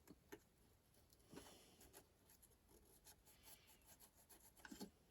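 Near silence with faint scratching and a few light clicks of soldering tools working on circuit-board pads.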